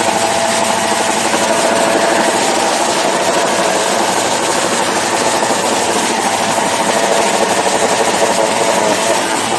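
Motorcycle engines running loud and steady.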